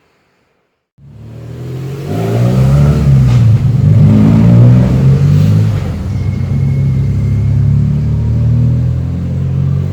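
Kawasaki KX250 dirt bike engine coming in about a second in, revving up and then running steadily under load as the bike rides.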